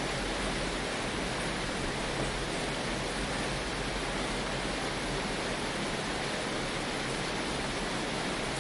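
Rain falling on a tin roof, a steady even hiss with no pauses or separate drops standing out.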